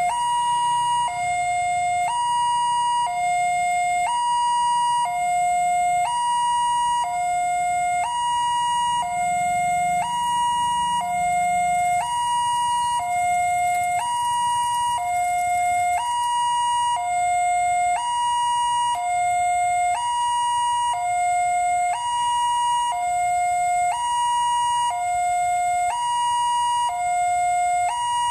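Railway level-crossing warning siren sounding a two-tone alarm that alternates steadily between a lower and a higher tone, each held about a second. It signals that a train is approaching and the crossing barrier is closing or closed.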